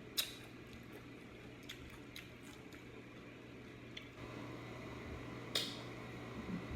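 Quiet mukbang eating sounds: soft chewing with a few short, sharp clicks of mouth or utensils, the loudest about five and a half seconds in, over a steady low hum.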